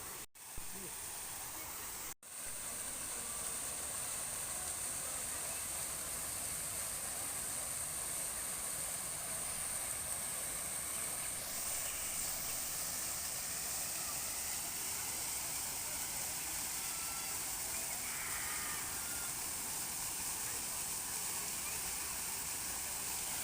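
A steady outdoor hiss, brightest in a high band, broken by two very brief dropouts in the first couple of seconds.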